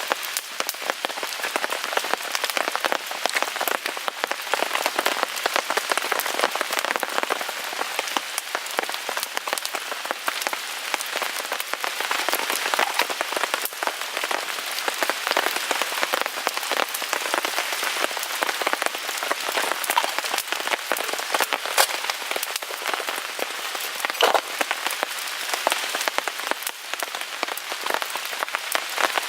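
Steady rain pattering on a tarp overhead: a dense, even patter with scattered sharper ticks.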